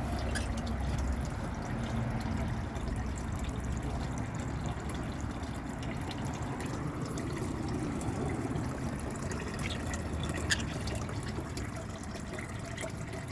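Running water trickling steadily in a bird bath, with a few faint clicks.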